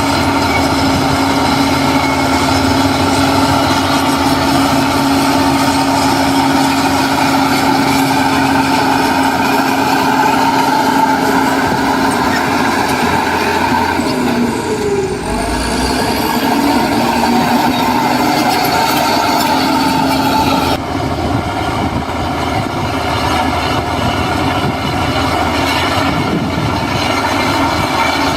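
Heavy diesel construction machinery running steadily under load, with a brief dip about halfway and an abrupt change in the sound a little past two-thirds of the way through.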